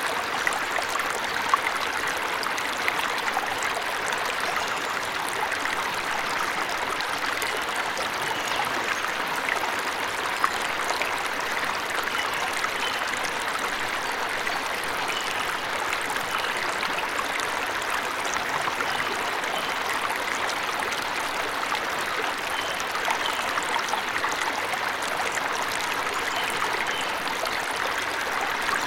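Waterfall: a steady, unbroken rush of splashing water, with an occasional sharper splash.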